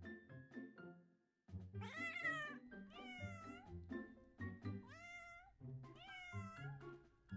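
A cat meowing four times, each meow about half a second long and the first the loudest, over background music of short, evenly struck notes. The music drops out for a moment just before the first meow.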